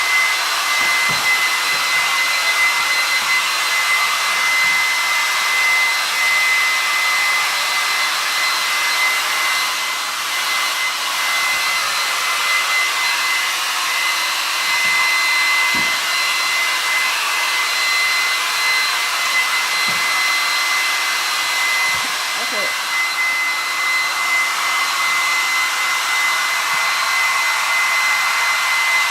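Hand-held hair dryer blowing steadily, a constant rush of air with a steady high whine from its motor.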